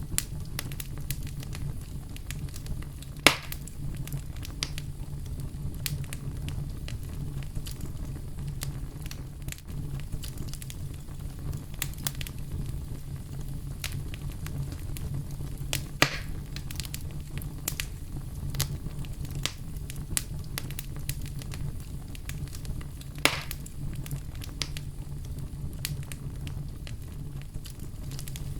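Firewood burning, with a steady low rumble and many small crackles. Three louder sharp pops come about 3 s, 16 s and 23 s in.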